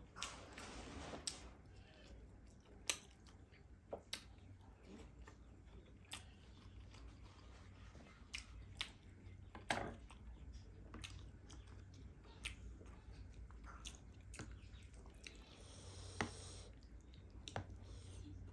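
Quiet close-miked chewing of a soft fried egg, with scattered sharp mouth clicks and smacks.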